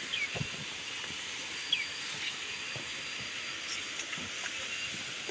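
Steady high-pitched hiss of tropical forest ambience. Two short falling bird chirps come about a second and a half apart, and a few soft low thumps.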